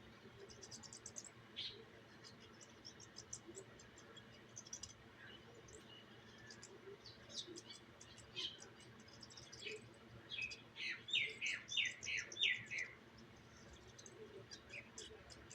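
Small birds chirping and twittering: scattered short, high chirps throughout, with a louder run of about six quick, falling chirps a little past halfway.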